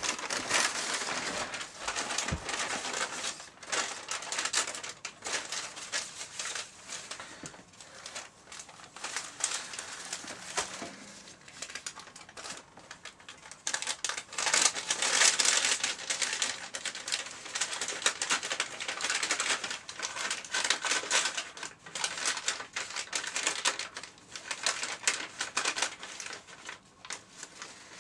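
Paper bags crinkling and rustling as they are handled, an irregular crackling that comes and goes in uneven waves.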